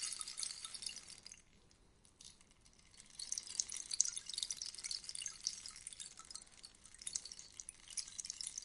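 Rainstick: a dense, rain-like patter of small pellets trickling through the tube. The cascade runs out about a second and a half in, leaving a short lull. A fresh trickle starts about three seconds in as the stick is turned over again.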